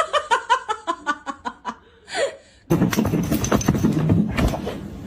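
A person laughing in a quick run of short "ha" sounds for about two seconds. A little under three seconds in, a louder, denser stretch of mixed noise starts.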